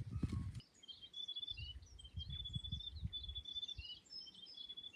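Birds chirping outdoors: a busy run of short, high repeated notes starting about half a second in, with irregular low rumbling underneath.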